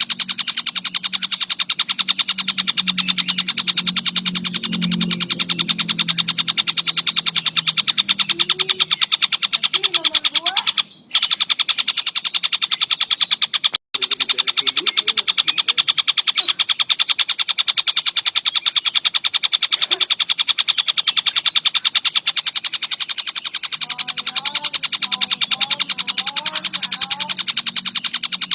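Javan kingfisher (tengkek buto) giving a loud, unbroken rapid rattling trill, held on and on, the kind of dense calling kept as a master recording for teaching songbirds. The trill breaks briefly about eleven seconds in and cuts out for an instant near fourteen seconds. Fainter, lower wavering calls sound beneath it at the start and near the end.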